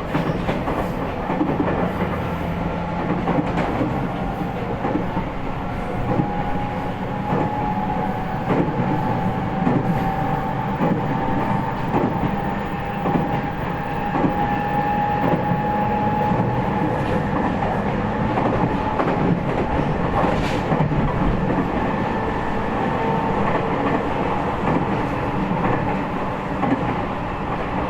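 Interior running sound of an E501 series EMU motor car, with its Toshiba IGBT inverter-driven traction motors and rail-joint clicks as the wheels pass over joints. A faint motor whine climbs slightly in pitch through the first half.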